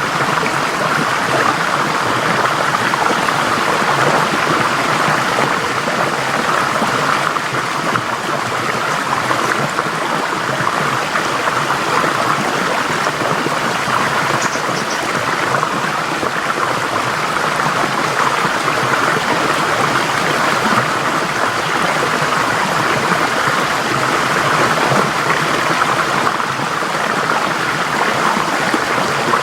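Forest stream flowing over rocks, a steady, loud rush of water.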